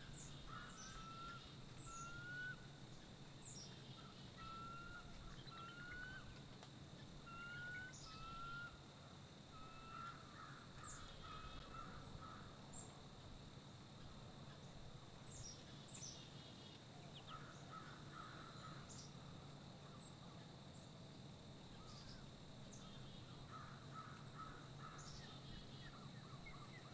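Faint bird calls in quiet outdoor ambience: a series of short rising whistled notes, about one a second, for the first ten seconds, then scattered chattering calls and brief high chips.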